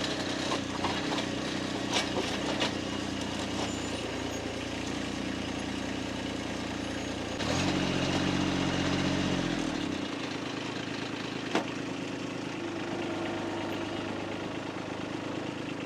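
An engine running steadily at idle. About halfway through it gets louder for about two and a half seconds, then settles back. A few sharp knocks sound near the start and once more later.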